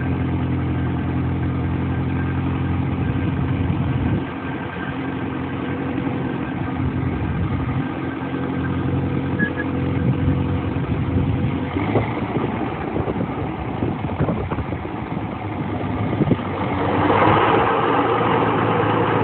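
1950 Case VAC tractor's four-cylinder gas engine running steadily. It drops a little in level about four seconds in, and a louder, rougher rushing sound joins near the end.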